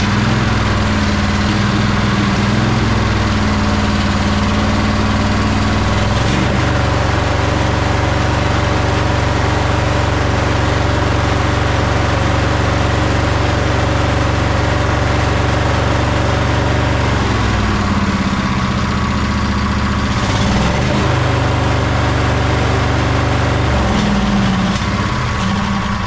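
Sabre by John Deere lawn tractor's twin-cylinder engine running unevenly on only one cylinder, the other one not firing. Its speed dips and recovers several times.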